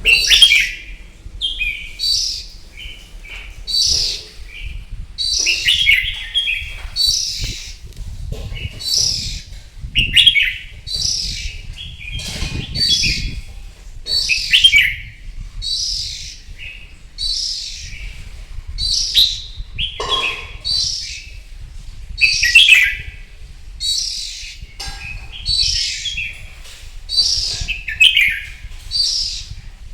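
Red-whiskered bulbul singing its combative competition song: short, bright, warbling phrases repeated about once a second.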